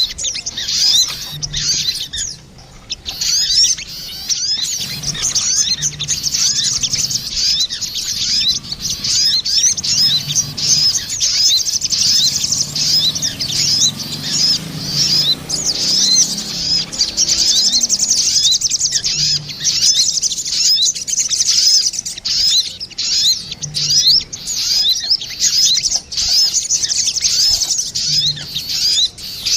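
Sogon birds, a female and a male, calling back and forth in a dense, continuous run of quick, high chirps, as used in a bird-lure (pikat) recording.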